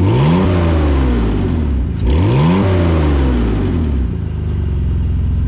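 BMW E39 525i's M54 inline-six running with its resonators and muffler removed, the exhaust open behind the catalytic converters. It is revved twice, each rev climbing quickly and falling back, then settles into a steady idle.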